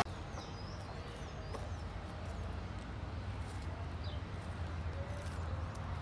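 Faint outdoor ambience: a steady low hum with a few short bird chirps and scattered faint clicks.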